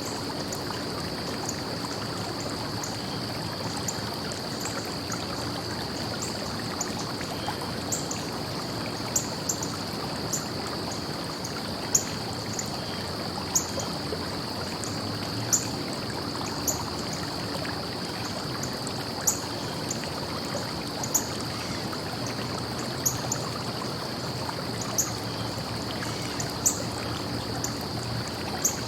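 Stream running steadily, a continuous rush of flowing water with a steady high hiss, dotted with many short, irregular high-pitched clicks and splashes.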